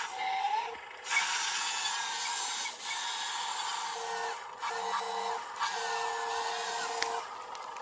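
Small remote-controlled excavator's electric motors whining as it works. A steady tone breaks off and comes back several times, with short pitch glides as the controls are moved. The machine is too weak to dig into the grass.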